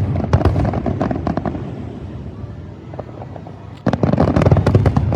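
Aerial fireworks bursting in a dense run of bangs and crackles that dies down over a couple of seconds. About four seconds in, a sudden new round of bursts starts.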